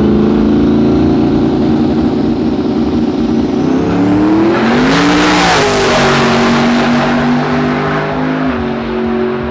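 Twin-turbo Jeep Grand Cherokee running hard on a drag strip, its engine held at high revs with a thin rising whine. About five seconds in, the engine climbs in pitch under a loud rush of noise, then drops again. It steps down once more near the end.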